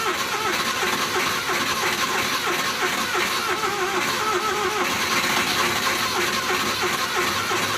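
Suzuki van's F6A three-cylinder engine being cranked over by the starter in a steady, rhythmic churn without catching. The owner takes the hard starting for a worn distributor cap.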